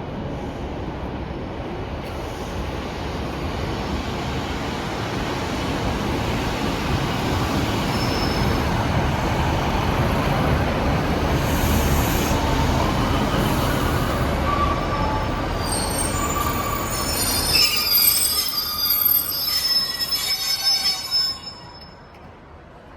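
A train running into the platform, its rumble building, then squealing brakes and wheels in several high tones for the last few seconds before the noise cuts off sharply as it comes to a stand.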